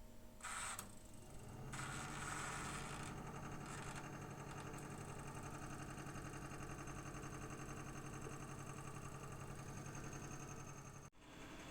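Electric mixer motor running steadily at one speed, starting up about two seconds in, with brief clatter before it and an abrupt cut near the end.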